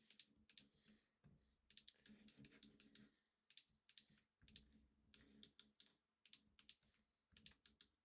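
Faint computer mouse and keyboard clicks: a string of irregular clicks, often in quick pairs, as 3D modelling software is worked.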